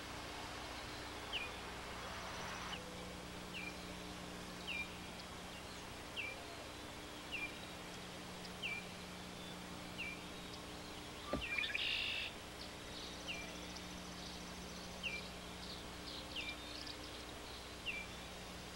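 A bird calling, one short falling note repeated about once a second, over a steady low hum. Near the middle there is a sharp click and a brief burst of busier sound.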